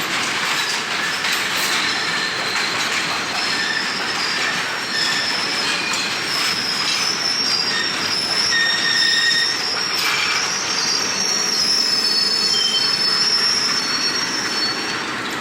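Passenger train running, its steel wheels squealing against the rails in short, high-pitched screeches at several pitches, over a steady rushing noise of the running train and wind on the microphone.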